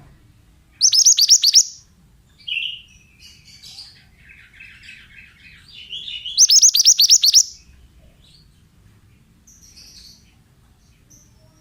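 Pied bushchat (mantenan) singing: two loud bursts of rapid, repeated high notes, each about a second long, near the start and about six seconds in, with softer twittering between them.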